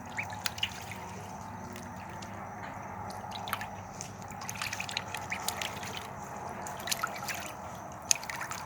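Light water sounds: dripping and trickling over a steady wash, with many small scattered clicks and drips.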